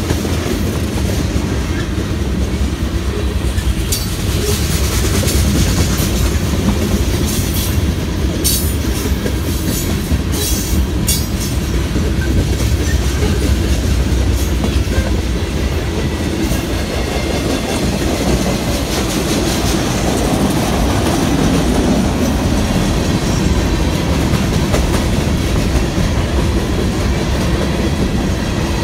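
Freight train cars rolling past, a steady low rumble with the clickety-clack of wheels over the rail joints. A scattering of sharp high clicks and squeaks from the wheels comes in the first ten seconds or so.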